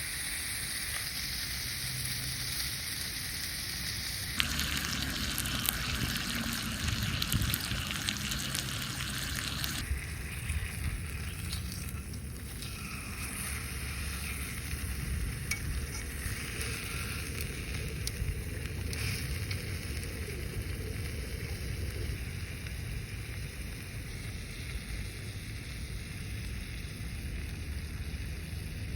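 Steady sizzling and crackling over a small wood fire, with a low rumble underneath. The sound changes abruptly about four seconds in and again about ten seconds in.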